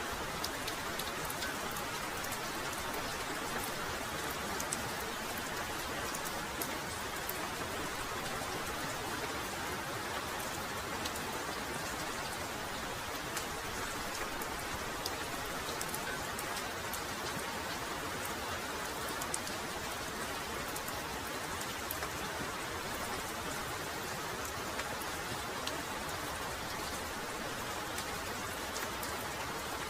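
Heavy rain falling steadily: a dense, even hiss with many scattered sharper drop ticks.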